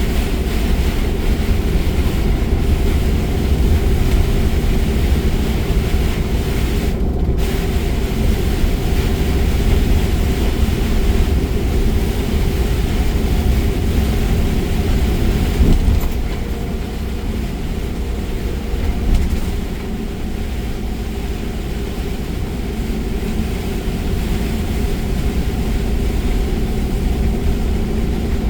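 Steady rumble of a car driving at speed through a rainstorm, heard from inside the cabin: tyre noise on the wet road mixed with rain, easing slightly about halfway through.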